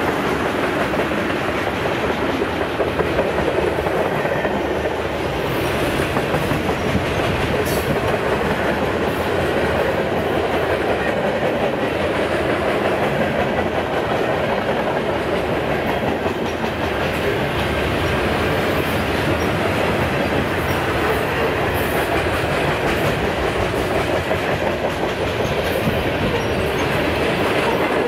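Freight train's tank cars and boxcars rolling past close by: a steady, loud noise of steel wheels running on the rails, with no change in level.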